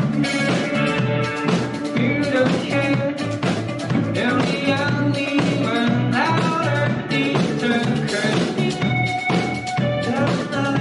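Rock band playing an upbeat song live, with a steady drum beat, guitars and singing.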